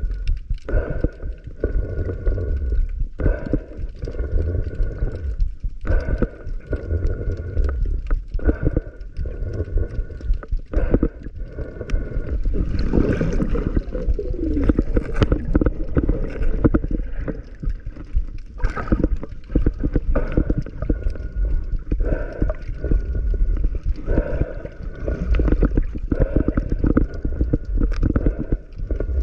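Underwater sound picked up by a submerged camera: a muffled, continuous water rumble with gurgling bubbles and many small clicks and knocks.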